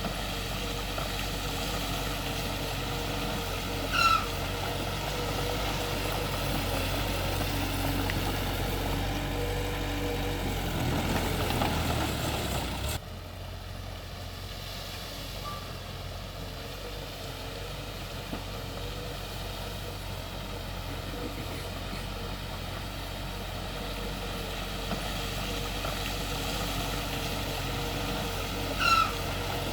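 Heavy diesel earthmoving machinery running steadily. The sound drops abruptly about halfway through, and two short beeps come far apart, one early and one near the end.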